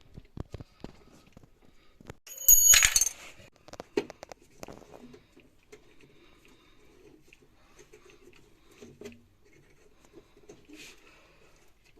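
Small metal objects clinking and clattering, with one loud ringing metallic clatter about two and a half seconds in, then scattered light clicks and taps.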